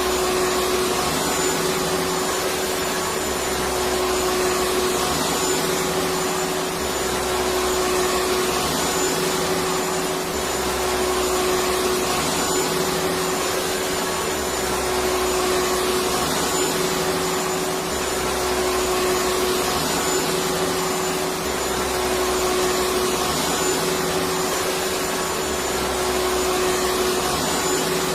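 Electric vacuum cleaner running continuously: a steady rushing airflow noise with a constant motor hum and a faint high whine, easing slightly and swelling back every few seconds.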